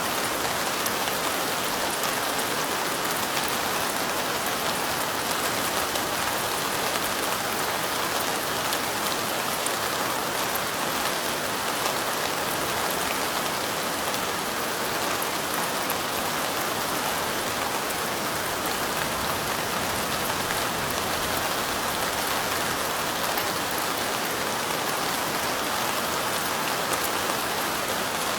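Steady light rain: an even hiss with fine, scattered drop ticks, unchanging in level.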